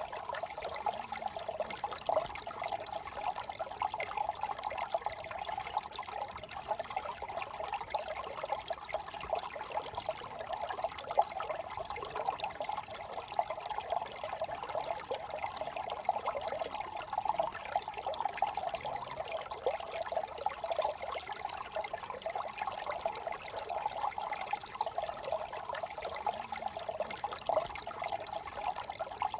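Small brook trickling and babbling over stones, a steady continuous flow of water.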